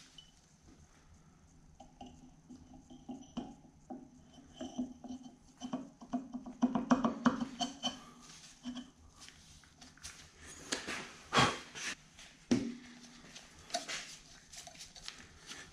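Pulley hubs being fitted back onto a Bridgeport mill motor shaft: metal parts clinking, scraping and clicking as they are handled, with a run of quick rattling clicks midway and two sharp knocks later on.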